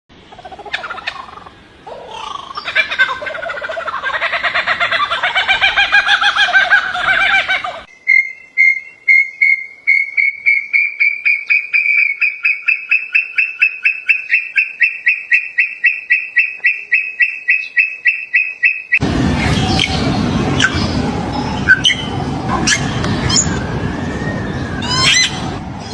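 Several different birds calling in three back-to-back clips: first a dense jumble of warbling calls, then one bird repeating a rapid note about five times a second for some ten seconds, slowly rising in pitch, then a busier, noisier mix of calls and sharp clicks.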